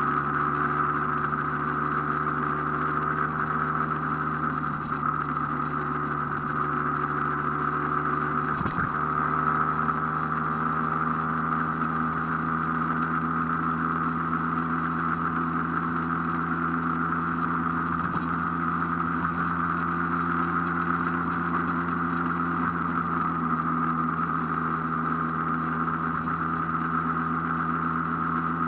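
Aprilia AF1 motorcycle's two-stroke engine running at a steady, nearly constant pitch while riding, heard from on board. There is one brief sharp click about nine seconds in.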